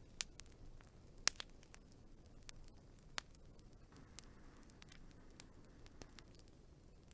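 Wood fire crackling: irregular sharp pops and snaps over a low steady hiss, the loudest pop a little over a second in.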